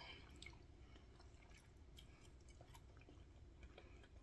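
Near silence with faint chewing of a big mouthful of food, a few small soft mouth clicks scattered through it.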